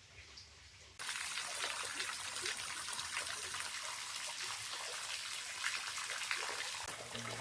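Water trickling and splashing, a dense patter of small drips, starting abruptly about a second in.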